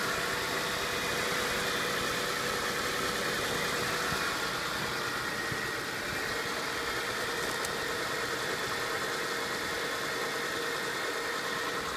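2005 Kia Amanti's 3.5-litre V6 engine idling steadily, running smooth and quiet.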